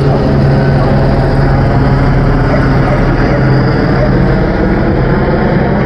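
Loud, steady engine drone with a low hum, running without a break.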